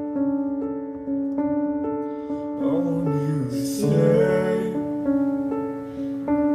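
Piano or keyboard playing sustained chords that change about once a second, with a short sung phrase in the middle.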